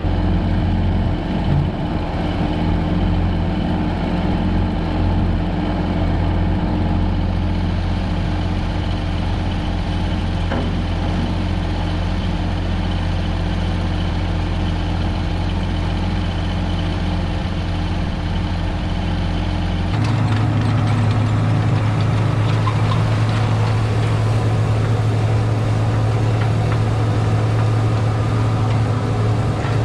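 Case IH Steiger 9370 tractor's diesel engine running steadily. About twenty seconds in, the sound changes abruptly to a louder, stronger hum.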